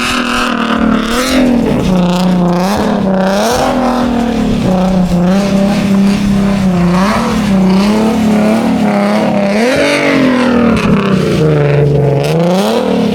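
Car engine revving hard under throttle, its pitch rising and falling again and again every second or two, as the throttle is worked through a drift in snow.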